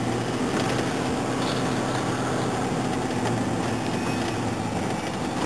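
Steady engine and road noise inside a moving patrol car's cabin, with a constant low hum.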